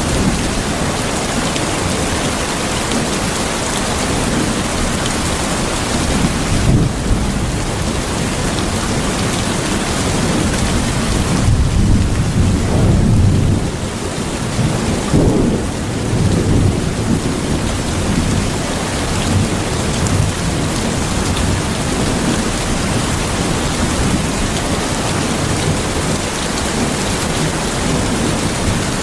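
Steady heavy rain, with low rolls of thunder that swell several times, loudest about halfway through.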